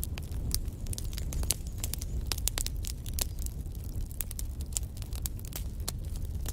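Wood fire burning in a fireplace: a low, steady rumble of flames with frequent irregular sharp crackles and pops from the logs.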